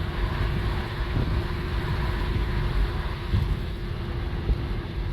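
A vehicle driving along a road: a steady low rumble of engine and tyres with a faint steady hum.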